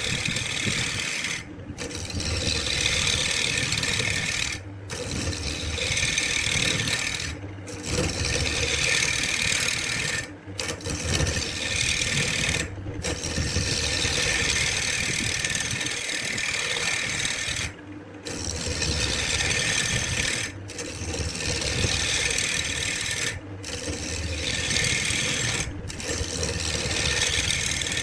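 Wood being worked with an abrasive tool: a steady, rough rubbing and scraping. It runs in stretches of a few seconds, broken by brief gaps about every two to three seconds.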